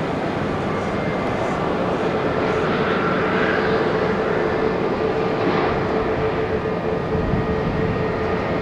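Jet airliner engines running: a steady roar with a steady whine, a little louder a few seconds in. The aircraft is a Boeing 737 MAX 8.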